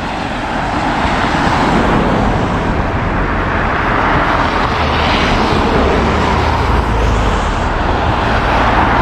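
Road vehicle noise on a snowy street: a car's engine rumble and tyre noise, growing louder over the first couple of seconds and then holding steady.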